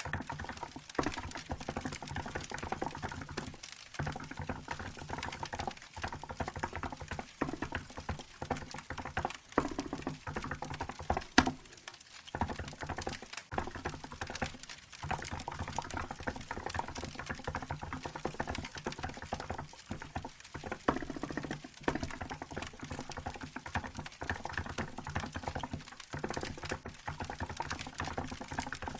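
Typing on a Hansung GK868B mechanical keyboard with milk keycaps: a steady run of fast key clacks, broken by short pauses a few times. One sharper, louder clack comes about eleven seconds in.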